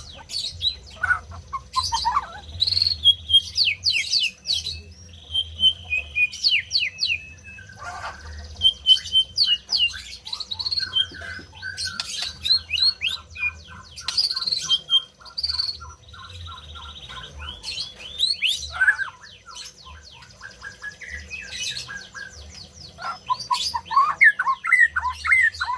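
White-rumped shama (murai batu) singing a long, varied song of fast whistles, chirps and trills, with a run of quick repeated notes about halfway through. A steady low hum lies underneath.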